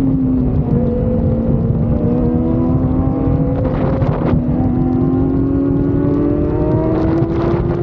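Motorcycle engine running under way, its pitch dipping slightly and then rising slowly and steadily, over a heavy low rumble. Two brief rushing noises come about four and seven seconds in.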